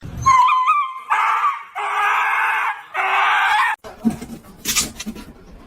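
A dog's high-pitched screaming cries: a short wavering whine, then three long, harsh screams that stop abruptly.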